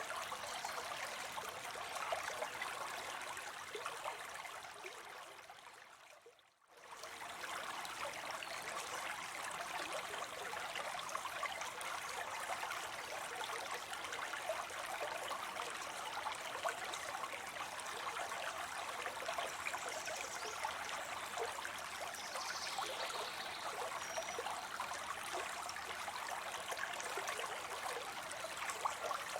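Water spilling into a pond: a steady trickling, splashing flow. About six seconds in it fades away almost to silence and comes straight back.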